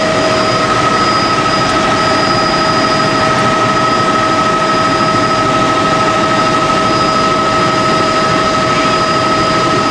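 Helicopter in flight heard from inside the cabin: a loud, steady drone of turbine and rotor with constant high whining tones over an even rushing noise.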